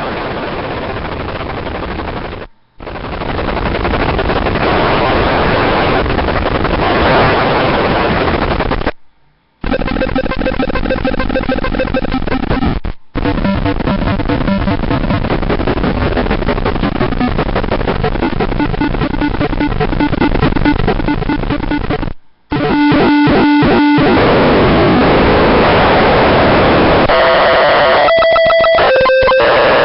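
Degrader Shifter noise pedal churning out harsh, distorted fuzz from an input turned into a square wave and divided into four octaves. It plays in several long stretches cut by brief dropouts, and near the end breaks into a stuttering, chopped tone with clear pitches.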